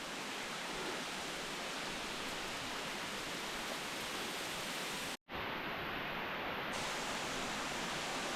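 Steady rush and hiss of a tall waterfall, about 248 feet high, falling into a pool. It cuts out for a split second about five seconds in and picks up again.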